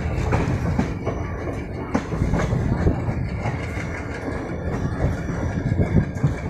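Local passenger train running along the track, its wheels clattering over the rail joints with a steady rumble, heard from the open door of a coach.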